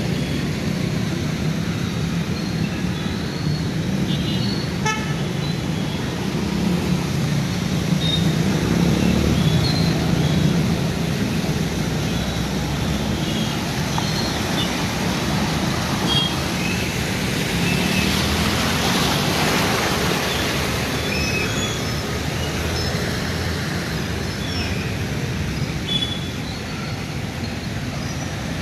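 Steady road traffic on a wet, flooded road: vehicle engines running with short horn toots here and there. About two-thirds of the way through, one vehicle passes close, its tyres hissing louder and then fading.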